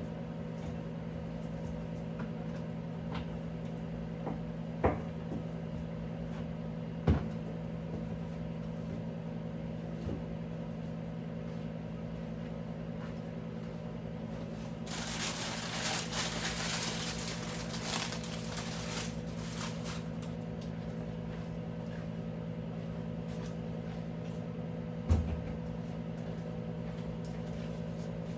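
Knocks of objects being handled and set down, three of them sharp, and about five seconds of rustling, hissing noise midway, all over a steady appliance hum.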